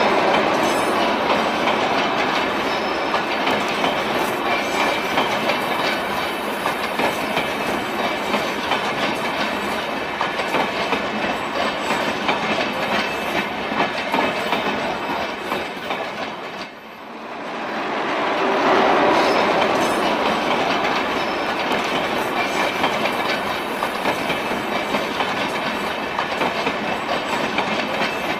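Indian Railways passenger coaches running past at speed, their wheels clattering steadily over the rail joints. The sound fades briefly about two-thirds of the way through, then comes back just as strongly.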